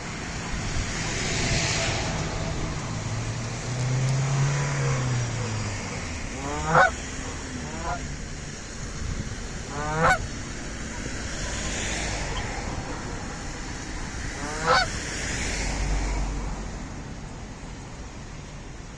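Canada geese honking: three loud honks a few seconds apart, with a fainter one just after the first, over steady background noise.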